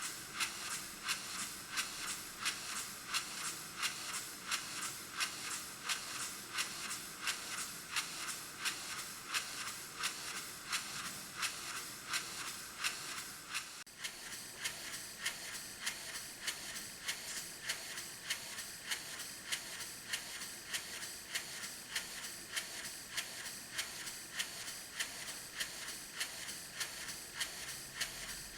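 Small EIWI model table engine running steadily on compressed air, its exhaust giving an even rhythm of hissing puffs about two to three a second. The puffs change character slightly about halfway through.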